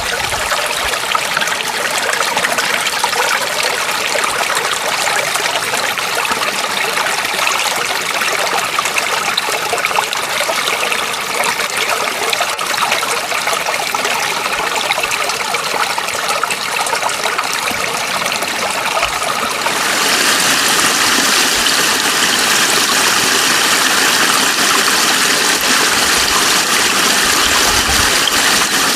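Running water trickling and splashing steadily. About twenty seconds in, it changes suddenly to a louder, brighter rush.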